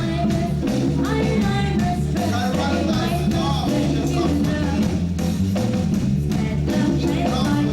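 Live reggae band playing: a heavy repeating bass line and drum kit keep a steady beat under guitar and other melodic parts.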